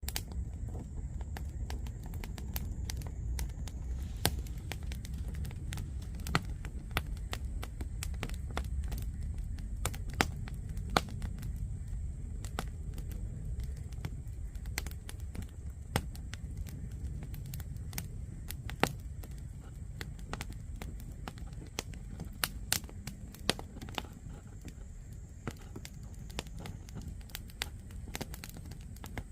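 Wood fire burning in a fire pit, crackling with frequent sharp pops over a low steady rumble.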